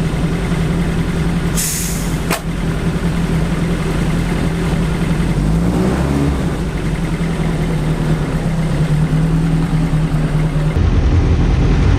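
BAC Mono's engine idling steadily, with a brief rise and fall in pitch about six seconds in. A short hiss with a click comes about two seconds in.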